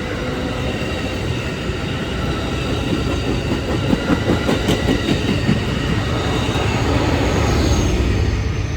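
A train passing close by: a steady rumble of wheels on rail, with a run of rhythmic clacks in the middle as the wheels cross rail joints, easing off near the end.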